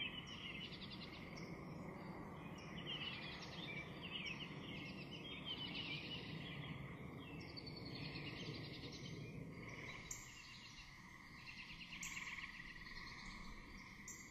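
Faint natural ambience of small birds chirping and twittering in short trilled phrases, over a steady high tone and a low background hiss.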